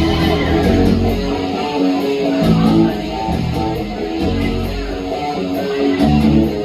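Live band playing an instrumental passage, led by strummed electric guitar over bass guitar.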